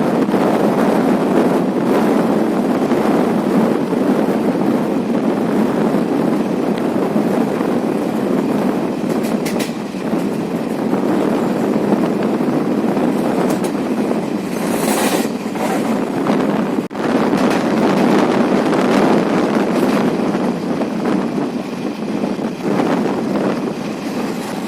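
Steady running noise of a moving passenger train, wheels on the track and rushing air, with a brief high hiss about fifteen seconds in.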